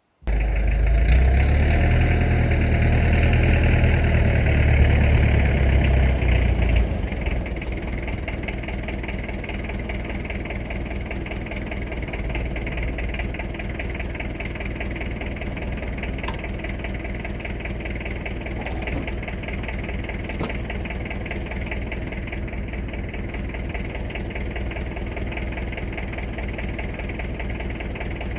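Tractor engine running, loud and heavy for the first seven seconds or so, then dropping suddenly to a quieter, steady running for the rest.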